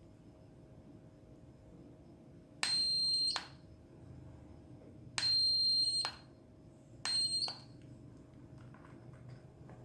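Three high-pitched electronic beeps: a steady tone that switches on and off abruptly, the second beep the longest and the third the shortest.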